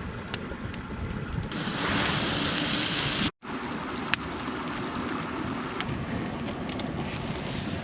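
Mountain stream water rushing steadily, louder and brighter for a couple of seconds before cutting off abruptly a little over three seconds in; the rushing then resumes with scattered sharp clicks over it.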